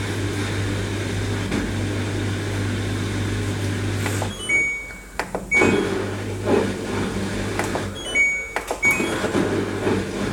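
LG Turbo Wash washing machine humming steadily as its motor runs. The hum cuts out about four seconds in, starts again a little later and stops again, with short high tones and clicks in the gaps.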